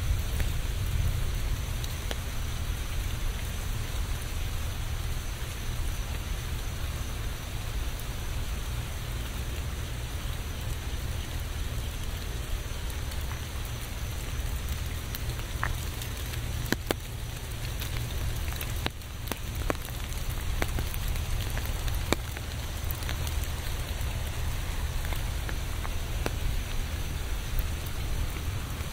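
Steady rain falling, with scattered sharper drops ticking through it and a steady low rumble underneath.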